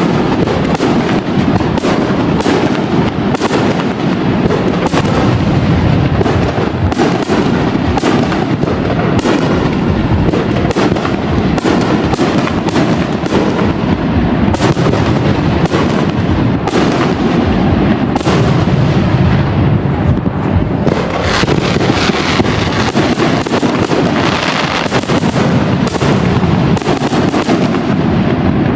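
Aerial fireworks bursting in a continuous barrage: sharp overlapping bangs, one to several a second, over a dense rolling rumble of reports and echoes, growing busier in the last third.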